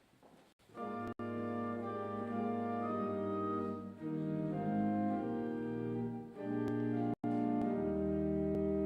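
Slow instrumental music of held chords, starting about a second in and moving to a new chord every few seconds.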